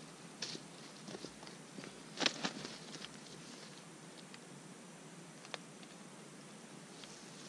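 Faint scattered rustling and small ticks over a soft background hiss, with a short cluster of rustles about two seconds in.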